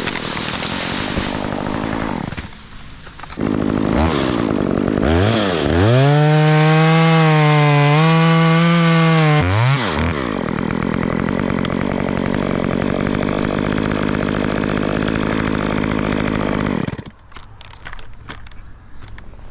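Stihl chainsaw engine revving up to full throttle for a few seconds, dropping back and running on at lower speed, then cutting off suddenly near the end.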